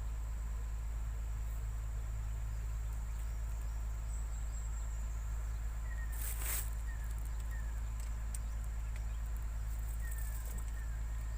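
Outdoor ambience of insects with a steady high-pitched buzz, a few short falling chirps, and a brief rustle about six seconds in, over a steady low rumble.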